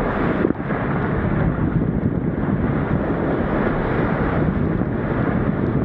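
Strong wind buffeting the microphone: a loud, steady rush of wind noise with a brief dip about half a second in.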